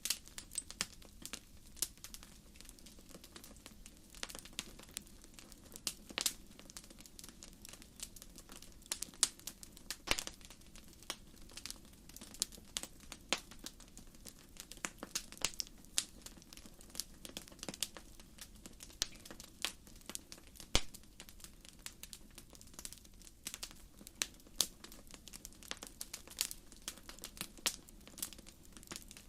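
Wood fire burning, its logs crackling and popping in frequent, irregular sharp snaps over a soft, steady rush of the flames.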